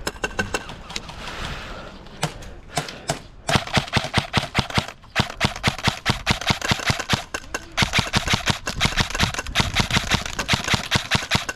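Airsoft guns firing in rapid strings of sharp clicking shots, starting about three seconds in and running almost without pause, with a short break around five seconds.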